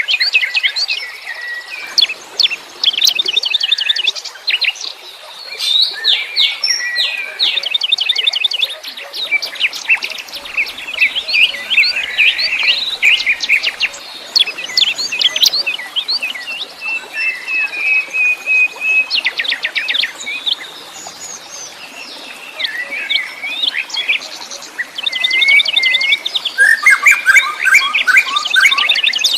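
A chorus of wild songbirds chirping and singing over one another: rapid trills, quick repeated chirps and short whistled notes, with no break.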